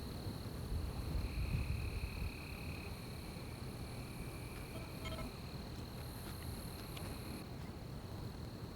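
Night insects calling in a forest: one keeps up a steady high trill while another calls in stretches of a second or two. A low rumble swells early on, and a short call sounds about halfway through.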